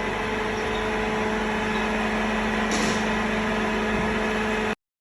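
Metal lathe running with a steady hum, with a brief high hiss about three seconds in; the sound cuts off abruptly near the end.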